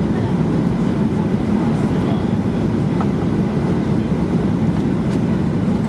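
Steady low cabin noise inside a Boeing 737-800 airliner, from its engines and airflow, with faint passenger voices in the background.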